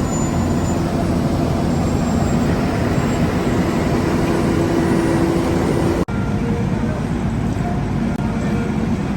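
Heavy road-construction machinery running steadily, engine and working noise together. It breaks off for an instant about six seconds in, then carries on much the same.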